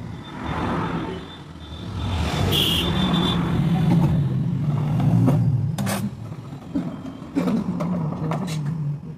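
A motor vehicle engine running, growing louder about two seconds in, with scattered clicks and knocks in the second half.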